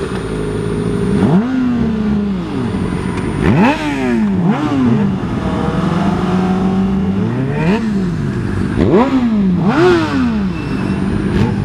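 Motorcycle engines revving hard several times, each climbing in pitch and dropping back as they accelerate and shift gears, with a steady engine note in between.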